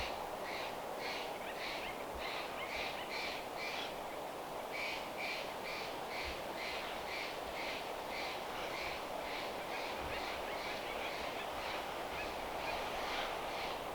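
A stream running steadily, with a bird calling over it in short high notes repeated about three times a second. The calls pause briefly about four seconds in.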